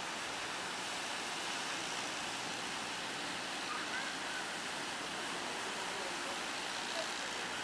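Steady roar of breaking sea waves and surf.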